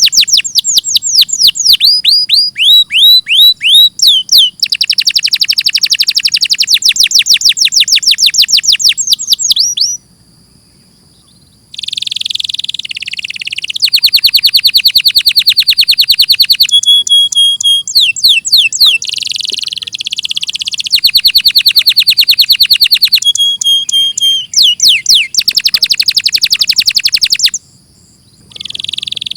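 Domestic canary singing: long phrases of fast, high repeated notes and rolling trills, each phrase switching to a new note type. The song breaks off briefly about ten seconds in and again near the end.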